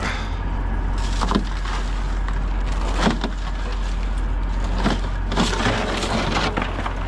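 Sharp knocks and cracks of ice being broken off a frozen truck, a few single hits and then a quick cluster near the end, over a steady low rumble.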